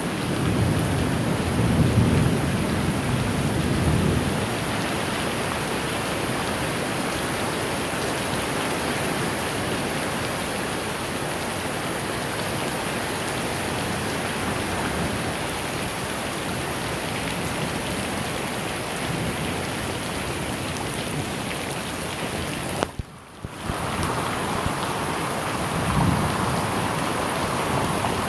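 Steady heavy rain of a Florida thunderstorm, with thunder rumbling low in the first few seconds and a shorter rumble near the end. The sound drops out for about half a second some three-quarters of the way through.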